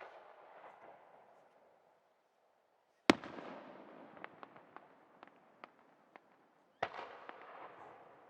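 Aerial firework shells bursting in the night sky, each sharp report followed by a rolling echo. The loudest bang comes about three seconds in and is followed by a scatter of smaller sharp pops; another shell bursts near the end.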